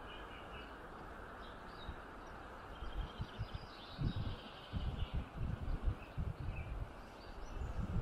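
Small birds chirping over a steady background hiss. Irregular low thumps and rumbles come in from about three seconds in.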